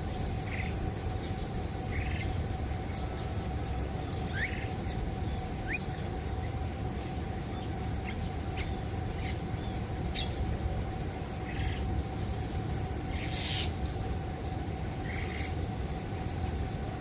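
Birds in an aviary calling sporadically: short chirps, a couple of quick rising whistles, and two louder rasping calls near the end, over a steady low background noise and a faint constant hum.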